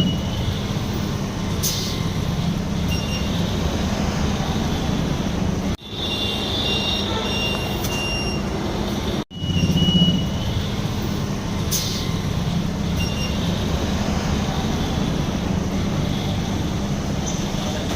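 Hero Passion Pro motorcycle's single-cylinder four-stroke engine idling steadily, with a low, even hum. It cuts out abruptly twice, about six and nine seconds in.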